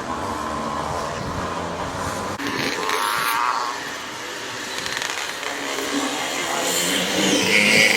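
Vintage motocross bikes racing on the track, their engines revving up and down as the riders accelerate and back off. The bikes get louder toward the end.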